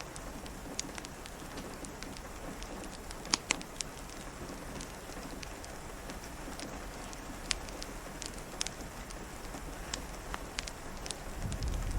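Steady rain falling, with scattered sharp clicks and pops of drips or a crackling fire. A low rumble of distant thunder begins to build near the end.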